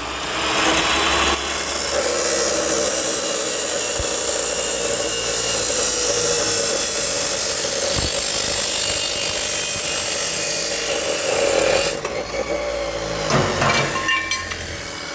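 A power saw running under load as it cuts through a piece of stock: a steady, high hiss with a held tone, stopping about twelve seconds in. A few clanks follow.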